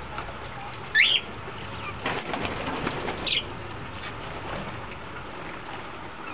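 Pet exotic birds: a loud, short, rising call about a second in and another short high call about three seconds in, with a flurry of wing flapping and fluttering between them.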